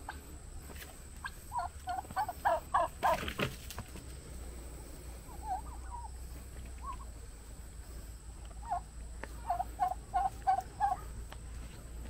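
A bird calling in two runs of about six quick, repeated notes, one starting about a second and a half in and another near the end, with scattered single calls between. A brief loud noise comes about three seconds in.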